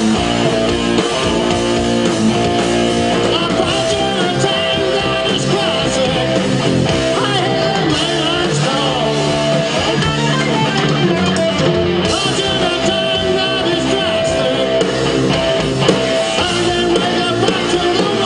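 Live rock band playing, with distorted electric guitar, bass, drums and a singing voice.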